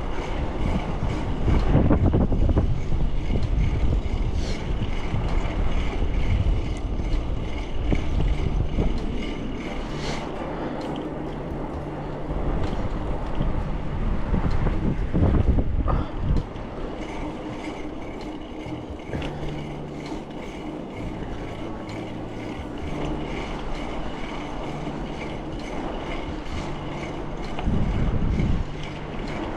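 Continuous road and traffic noise heard while cycling, with a low engine-like hum that comes and goes. There are louder low rumbles about two seconds in, around the middle and near the end.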